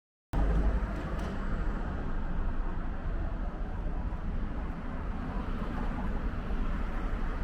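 A steady, dense low rumble with noise above it, cutting in abruptly about a third of a second in.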